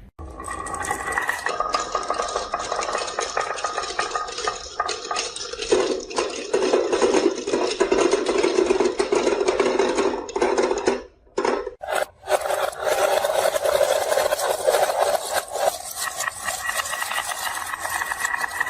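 Marbles rolling and clattering down a marble run in a continuous dense rattle, with a ringing rolling tone that shifts in pitch. The sound breaks off briefly about eleven seconds in, then picks up again.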